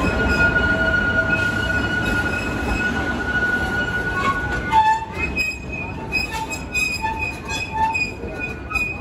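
Theme park passenger train rolling toward a station stop, the cars rumbling on the track with a high metallic squeal from the wheels on the rails. The squeal is steady at first, then shifts to a different pitch about halfway through and comes and goes as the rumble eases a little.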